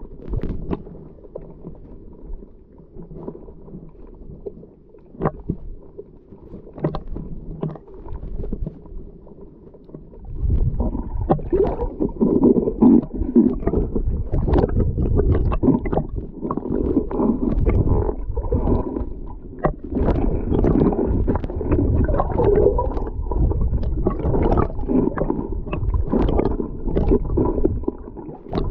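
Underwater sound picked up by a GoPro in its housing on a scuba dive: low and quiet with a few sharp clicks at first, then from about ten seconds in a loud, continuous bubbling rumble.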